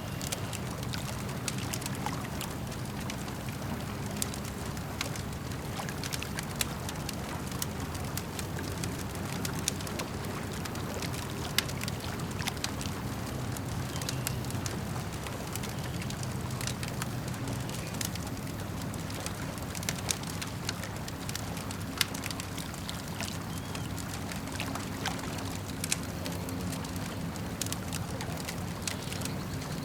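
Wood campfire crackling, with frequent sharp, irregular pops and snaps, over a steady wash of lake water.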